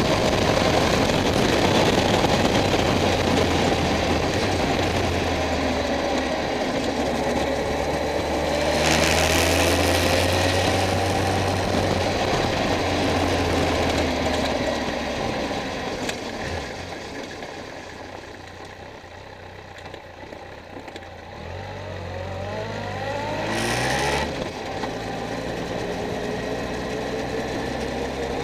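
Kawasaki ZZR1400 inline-four engine and exhaust, heard close to the muffler while riding: it runs steadily under throttle, eases off a little past halfway and goes quieter for a few seconds, then picks up again with a rising pitch as the bike accelerates. Two short rushes of noise, one about a third of the way in and one near the end.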